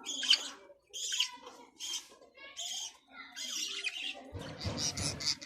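Budgerigars chirping and warbling, a run of short high chirps about two a second. A brief burst of low, noisy rustle sounds underneath the chirps near the end.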